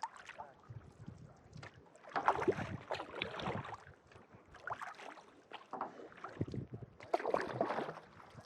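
Kayak paddle strokes: the blades dip and pull through calm lake water with swishing splashes and drips, several strokes in a slow, uneven rhythm.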